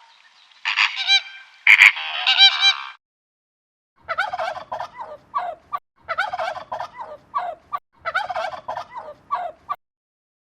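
Farm birds calling: a few loud, harsh calls in the first three seconds, then after a second's gap three bouts of rapid, chattering calls about two seconds apart.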